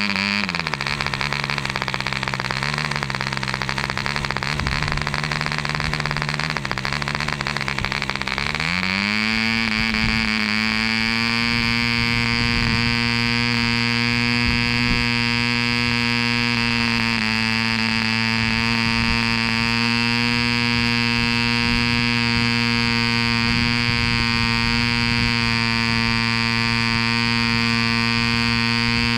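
Aurora-built Mills 0.75 cc two-stroke model diesel engine running steadily with a propeller. About nine seconds in its speed rises smoothly to a higher, even pitch and holds there.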